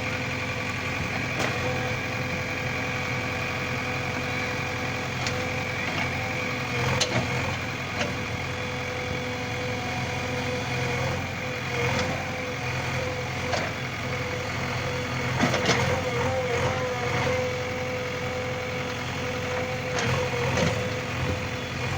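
JCB 3DX backhoe loader's diesel engine running steadily with a constant whine, broken now and then by sharp knocks and clanks, several of them together about two-thirds of the way through.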